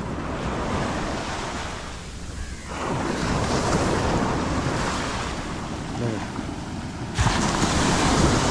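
Wind rushing over the microphone on top of the wash of sea surf, with a sudden rise in hiss near the end.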